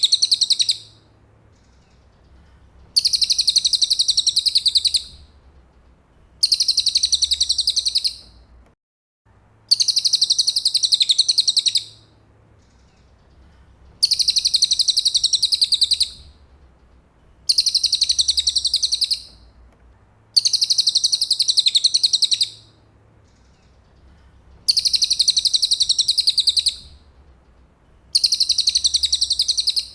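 Cililin birdsong: a fast, high-pitched trill of about two seconds, repeated at regular intervals about eight times, with a faint low hum underneath.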